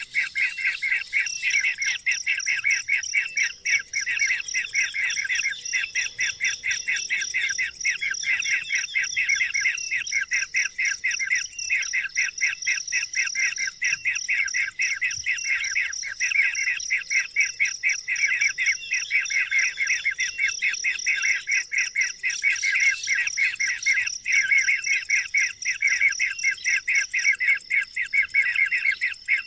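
Birds chirping in a dense, rapid, unbroken stream of short calls. A steady high-pitched tone runs underneath, starting about a second in.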